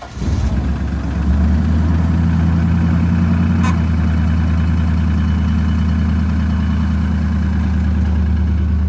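1998 GMC Sierra pickup engine just after a cold start at about 3°F, after two days sitting. It comes up in level about a second in, then holds a steady idle.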